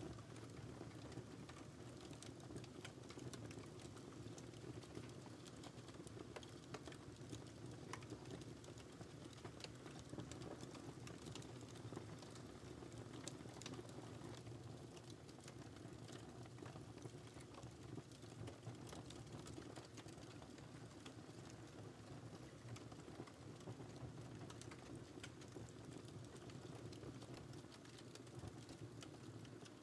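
Wood fire crackling: many small, irregular pops and snaps over a soft, low rumble of burning flames.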